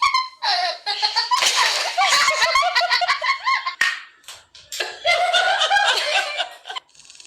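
High-pitched human laughter in several fits, breaking off briefly about four and a half seconds in, with a few sharp clicks among it.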